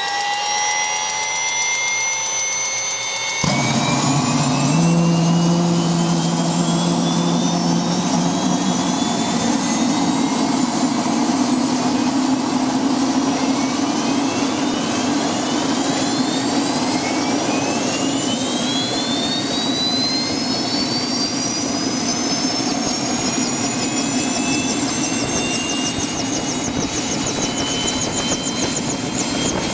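Quadcopter drone's electric motors and propellers whining, several tones sliding up and down in pitch as the motor speeds change. A lower hum joins suddenly about three seconds in.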